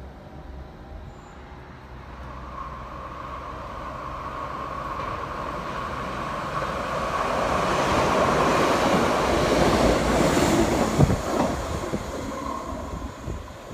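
Red RBS metre-gauge electric commuter train running through a station on a curve. It grows steadily louder as it approaches, with a steady high whine. A few knocks come near its loudest point, and then the sound fades.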